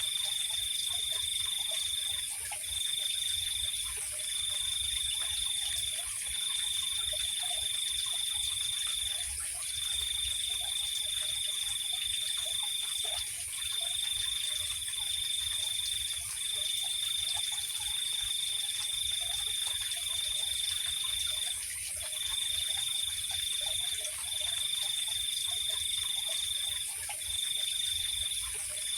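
Night insect chorus: a cricket trills in long runs of one to four seconds with short breaks, over a constant high-pitched insect hiss. Faint, scattered low calls, like frogs, sound underneath.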